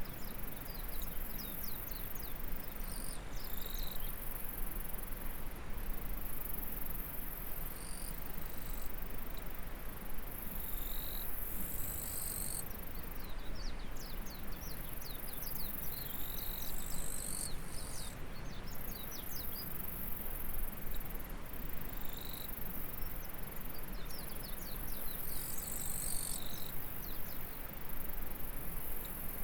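Insects trilling high and shrill in long stretches that stop and start every few seconds, over the steady rush of a flowing stream, with series of quick high chirps.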